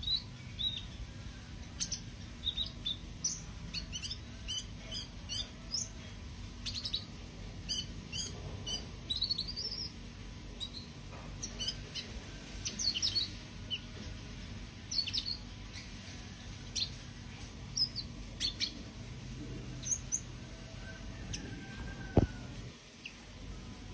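A cucak kino songbird chirping and twittering in quick runs of short, high, repeated notes with brief pauses between phrases. About 22 seconds in there is a single loud low thud over a steady low hum.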